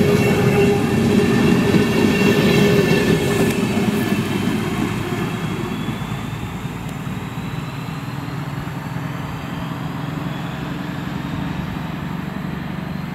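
Intercity passenger coaches rolling past over the rails and drawing away, the rumble of the wheels fading over the first few seconds, then continuing more quietly.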